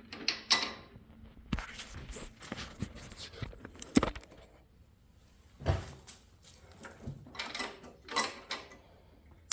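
Irregular clicks, knocks and rustles of hands handling tools and ignition wiring on a garden tractor, with a sharper knock about four seconds in and another near six seconds; no engine or starter running.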